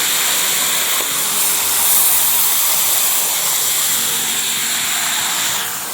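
Small waterfall: water rushing and splashing over rocks as a steady hiss, which falls away shortly before the end.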